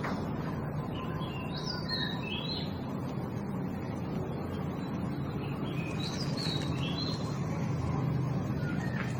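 Baby birds chirping: short, high chirps in two quick clusters, about a second and a half in and again about six seconds in, over a steady low rumble.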